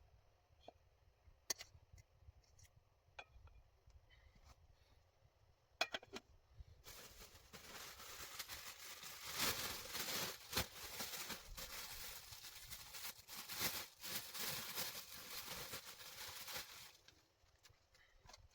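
Scattered sharp crackles and clicks. About seven seconds in, a dense run of crackling and rustling starts and lasts about ten seconds, then stops.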